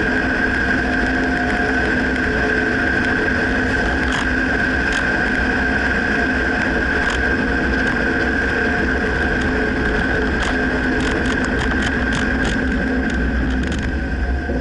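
Dodge Ram pickup running, with steady rumble and a constant whine, and scattered sharp clicks or knocks that come more often near the end.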